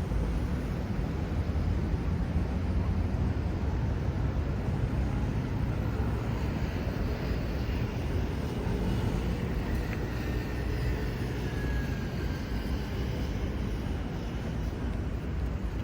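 Steady low rumble of vehicle traffic, with no clear single event standing out.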